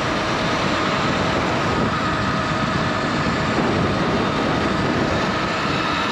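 Wind rushing over the microphone on a Surron electric dirt bike ridden at about 45 mph, with a faint steady whine from the electric motor and drivetrain under it.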